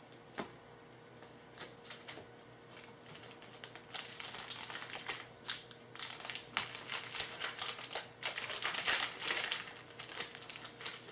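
Trading-card pack wrapper being opened and crinkled by hand: a few faint clicks at first, then dense crinkling and crackling from about four seconds in until shortly before the end.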